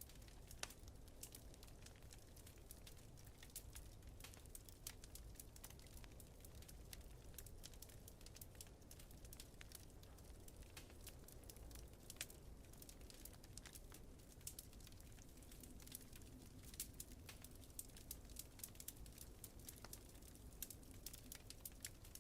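Faint wood fire crackling in a fireplace, with irregular sharp pops and snaps over a low steady rumble.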